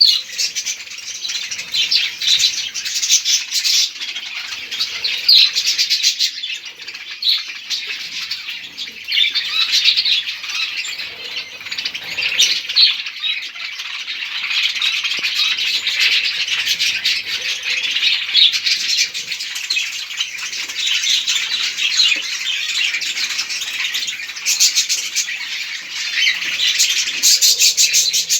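A flock of budgerigars chattering continuously, many birds warbling and chirping at once.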